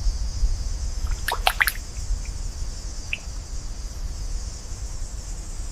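Ambience of tidal water: a steady low rumble with a quick cluster of drips about a second and a half in and a single drip near three seconds, over a steady high hiss.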